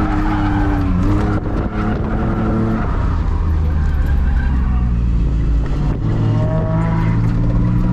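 Drift car engine revving hard with tyres skidding; the engine note drops about a second in and climbs again near the end.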